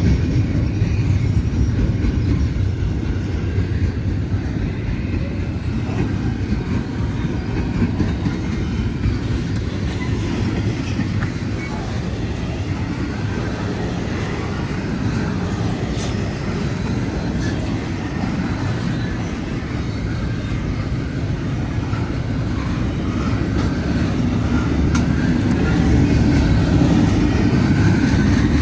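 Freight train cars rolling past close by: a steady heavy rumble with the clickety-clack of wheels over the rail joints, growing a little louder near the end.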